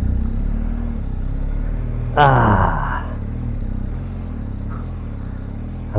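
Motorcycle engine running at low revs. About two seconds in it briefly gets louder, and the pitch falls away over about a second.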